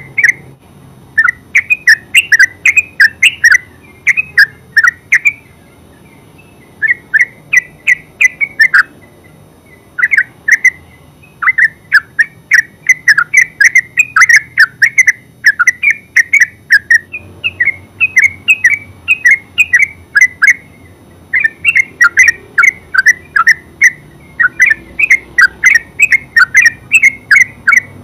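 Yellow-vented bulbul singing its rapid bubbling song, runs of quick short notes broken by brief pauses.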